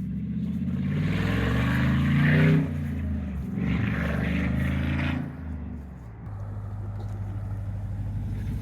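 Dodge Challenger SRT8's 6.1 Hemi V8 revving up twice, its pitch climbing each time, then dropping back to a steady idle about six seconds in.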